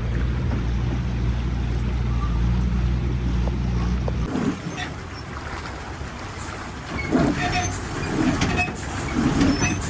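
A heavy vehicle's engine running steadily at a low pitch, cutting off suddenly about four seconds in; scattered knocks and clicks follow.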